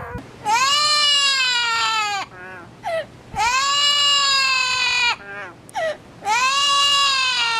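A parrot mimicking a crying baby: three long wailing cries, each rising and then sagging in pitch, with short sobbing gasps between them.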